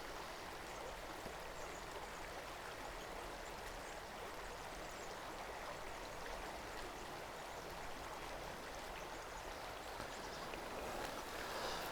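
Mountain trout creek flowing over riffles, a steady, faint rushing of water that swells slightly near the end.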